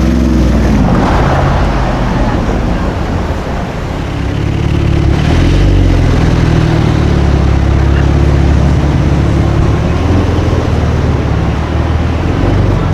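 A sports car's engine running loud and low. Its pitch drops about a second in, then holds fairly steady with small rises and falls.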